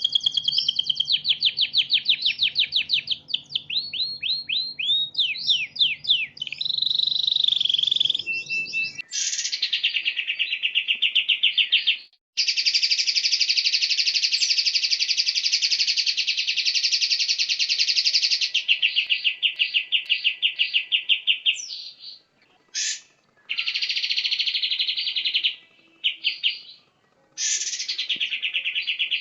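Recorded songbird song played as a masteran training track: a rapid run of quick sweeping chirps over a low hum, then about nine seconds in an abrupt switch to a different bird's long, very fast trills broken by short pauses.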